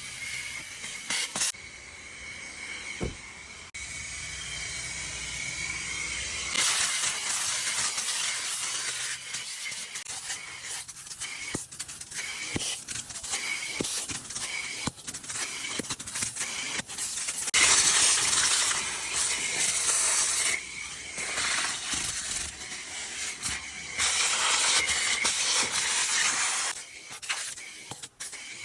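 Vacuum cleaner sucking at a car's interior: a steady hissing rush with a high whine, getting louder and softer as the nozzle moves, with scattered clicks and knocks of the nozzle against the car.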